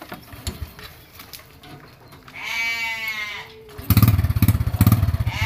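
A sheep bleats once, a long quavering call about halfway through. About four seconds in, the three-wheeler's Honda Supra single-cylinder four-stroke motorcycle engine starts suddenly and keeps running with a rapid low beat, the loudest sound here.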